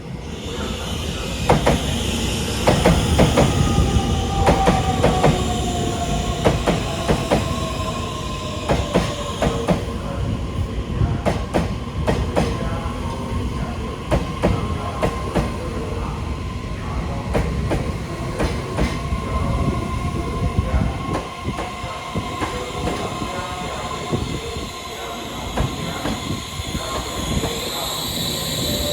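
EMU3000 electric multiple unit arriving at a station: its traction-motor whine falls in pitch as the train slows, over rumble, wheel clicks across rail joints and some wheel squeal. A high whine rises near the end.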